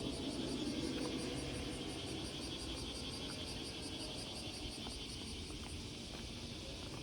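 Insects chirping in a fast, even pulse, over a low background rumble.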